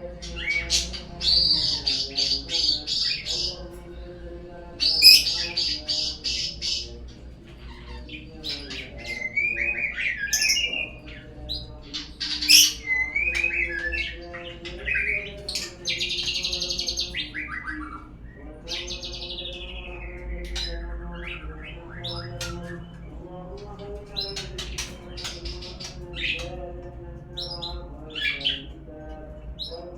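Murai batu (white-rumped shama) lure song: a run of varied whistled, trilled and chattering phrases, some rapid and rattling, some gliding down in pitch, the kind of recording played to get caged birds to start singing. A lower wavering tone runs underneath.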